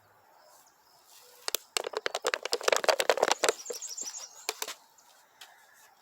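Small birds chirping in short, high, falling notes, with a loud run of rapid, irregular clicking and crackling through the middle few seconds.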